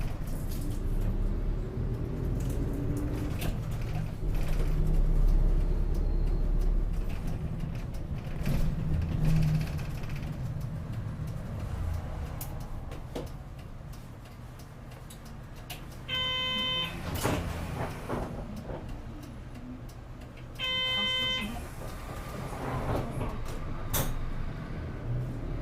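Inside a city bus: the engine and road rumble run steadily, louder in the first half and quieter later. Two short identical electronic beeps come about 16 and 21 seconds in.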